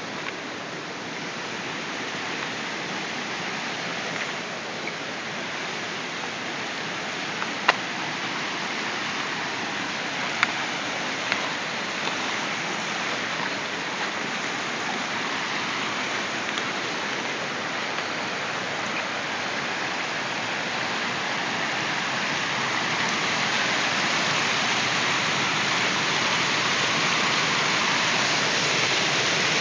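Stormwater runoff rushing through a flooded backyard, a steady watery rush that grows louder over the last several seconds. A few faint clicks come about a quarter to a third of the way in.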